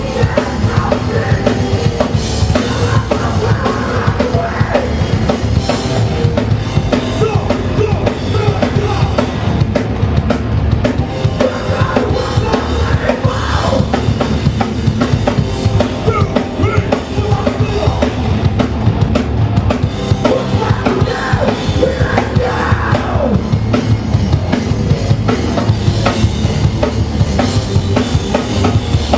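Hardcore punk band playing live: a drum kit pounding fast with a heavy bass drum under a loud, full band.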